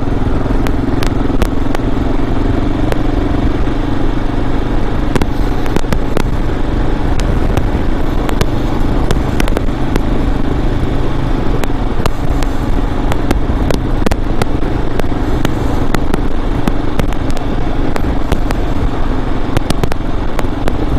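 Kawasaki KLR650's single-cylinder engine running steadily at cruising speed, with road and wind noise and frequent short crackles throughout.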